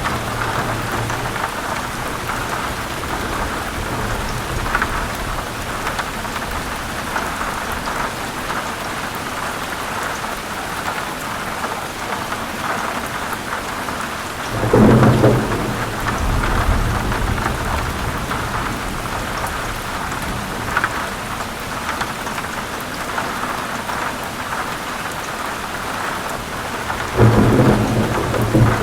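Heavy rain falling steadily on forest leaves, with scattered drips. Thunder rumbles twice, once about halfway through and again near the end.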